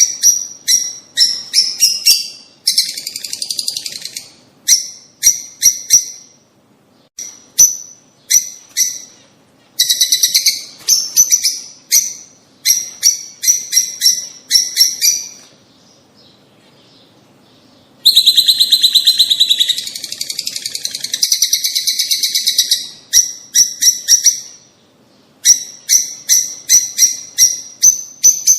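Small birds chirping in quick runs of sharp, high chirps, broken by longer rapid trills about ten seconds in and again from about eighteen to twenty-three seconds, with a brief lull just before the second trill.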